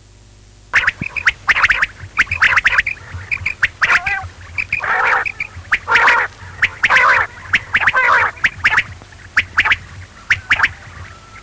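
Quail calling: an irregular run of short calls and sharp clicks, starting about a second in, with a few longer calls in the middle.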